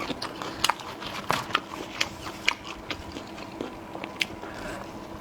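Close-miked eating: a person biting and chewing food, with irregular sharp mouth clicks.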